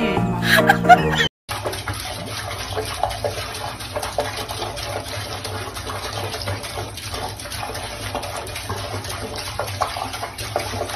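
Water running steadily, like a tap filling a bath. Before it, music plays and cuts off about a second in.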